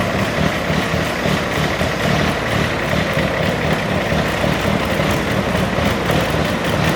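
Garden tractor engine running steadily at an even speed, with a rapid low exhaust pulse and no revving up or down.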